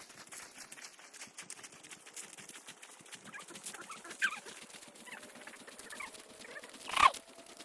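Footsteps crunching along a trail, with a short animal call about four seconds in and a louder, brief one near the end.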